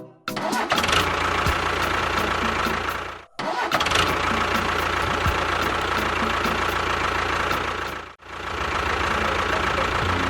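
A motor running steadily, broken off twice by brief gaps about three and eight seconds in.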